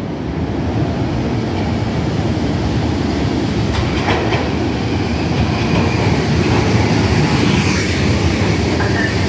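Metro-North M3 electric multiple-unit train arriving at a station platform and rolling past: a steady rumble of steel wheels on rail that grows a little louder as the cars go by. A few clicks come about four seconds in.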